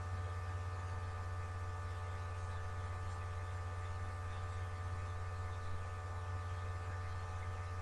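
Steady low electrical hum with a few faint, even higher tones above it, and no other sound.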